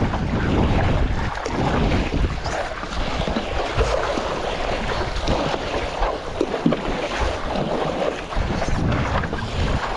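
Water splashing and rushing around a stand-up paddleboard on choppy sea, with wind buffeting the microphone in a low rumble.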